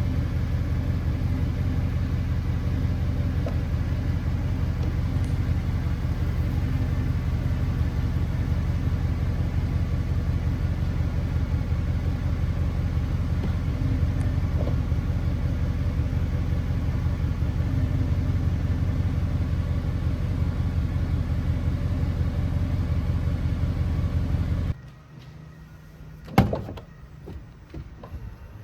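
Mercedes-Benz SLS AMG Roadster's 6.3-litre naturally aspirated V8 running steadily at idle, with no revving. The sound stops abruptly about 25 seconds in, and a single sharp knock follows shortly after.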